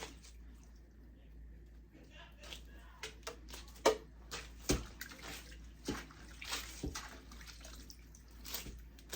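Water sloshing and splashing in short, irregular bursts as a wig is hand-washed in water.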